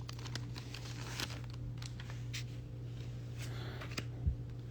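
Faint light clicks and rustling of Pokémon trading cards and booster-pack wrapping being handled, over a steady low hum.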